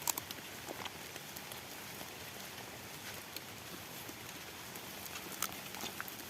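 Steady rain falling in a forest, an even hiss with scattered drops ticking and tapping on nearby surfaces.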